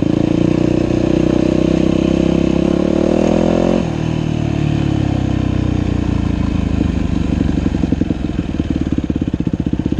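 Dirt bike engine rising in pitch under throttle for about four seconds, then the throttle is shut suddenly. The note falls away and settles into an even, pulsing idle.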